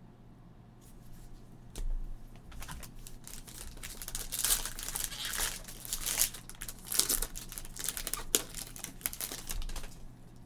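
A trading card pack's wrapper crinkling and tearing open, in irregular bursts of crackling that are busiest in the middle.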